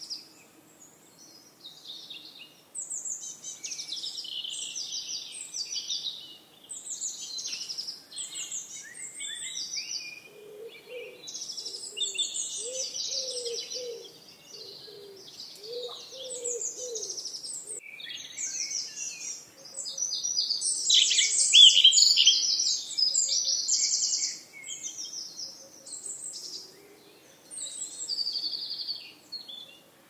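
Songbirds singing, many quick chirps and trills overlapping, thickest and loudest a little past the middle. A lower repeated call joins in briefly near the middle.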